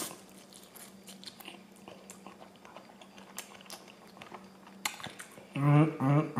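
Close-miked chewing of a mouthful of pad thai rice noodles: soft wet mouth clicks and smacks. Near the end come two short closed-mouth hums of enjoyment.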